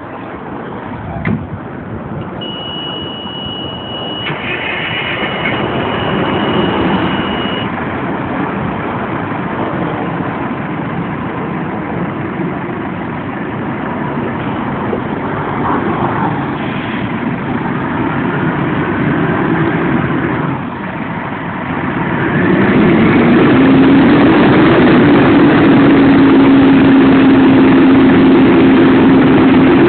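FDNY fire engine's diesel engine running and building up as the rig pulls out, with a thin high steady beep for several seconds early on. About three-quarters of the way through, a loud tone rises and levels off, holding steady to the end.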